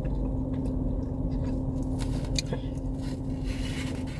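Steady low drone inside a parked car with the engine idling, a constant hum throughout, with a few faint clicks and rustles over it.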